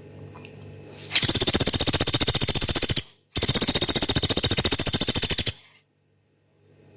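Pelatuk beras, a small pygmy woodpecker, giving two long, harsh, high-pitched rattling trills of very fast repeated notes, each about two seconds, with a short break between.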